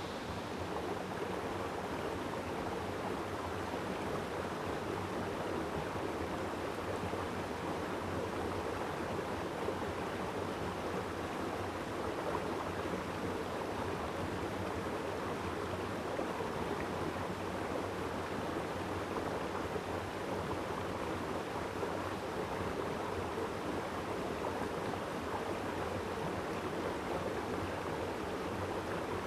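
A mountain stream running steadily, a constant rushing of water.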